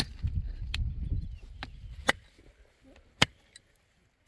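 Five or so sharp knocks at irregular intervals, like a tool striking something hard. A low rumble runs under the first second and a half.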